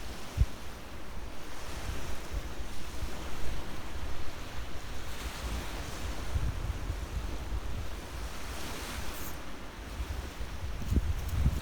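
Wind buffeting the microphone over the steady wash of sea waves, the waves swelling and easing in places.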